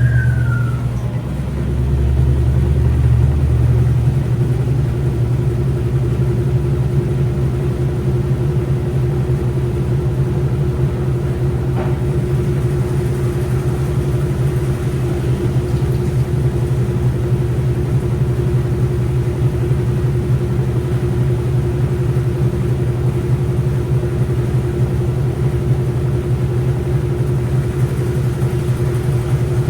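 Washing machine running with a steady low hum and rumble and a faint steady higher tone above it; a short falling whine sounds in the first second.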